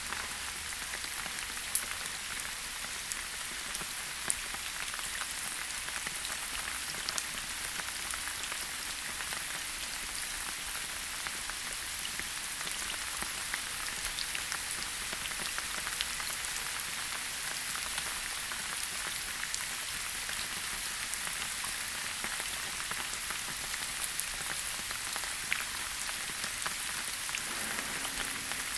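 Steady rain falling in a forest, an even hiss with many close drops pattering on leaves and surfaces.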